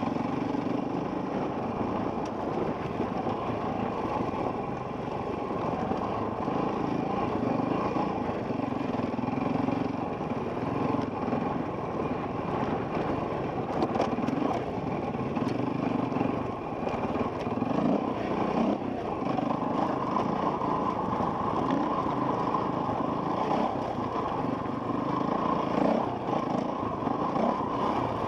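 Enduro dirt bike engine heard from a helmet camera while riding a trail, its pitch repeatedly rising and falling with the throttle.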